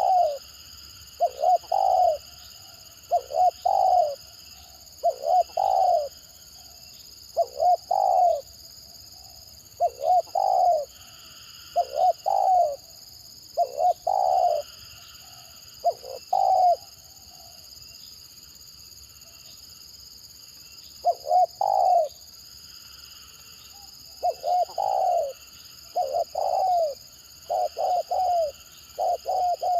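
Spotted dove cooing over and over in short, stuttering clusters of two or three notes, with a pause of a few seconds about halfway through. A steady high-pitched drone sounds in the background.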